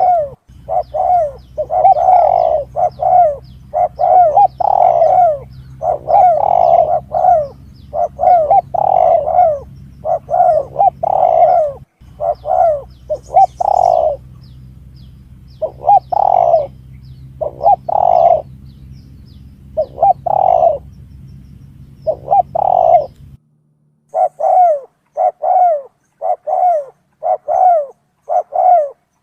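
Spotted dove (tekukur) cooing, a recorded lure call: short coo phrases repeated over and over in bunches with brief pauses. A low steady hum runs underneath and cuts off suddenly toward the end.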